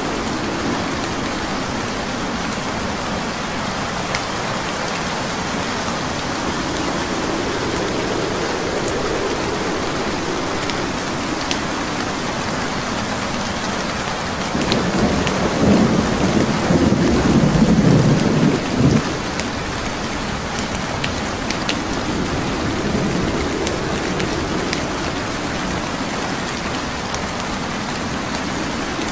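Steady rain with scattered sharp crackles and pops of burning wood logs in a fireplace. About halfway through, a low rolling rumble of thunder swells for about four seconds and fades.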